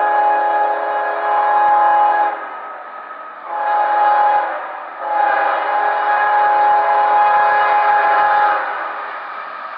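GE ES44AH diesel locomotive's multi-chime air horn blowing: the end of one blast, a short blast, then a long blast lasting about three seconds. This is the close of a grade-crossing signal. After the horn stops, the lower rumble of the passing train carries on.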